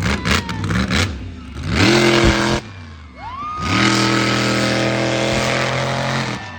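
Monster truck engine revving hard: a short rev about two seconds in, then a second rev that climbs and is held at high revs for nearly three seconds before cutting off.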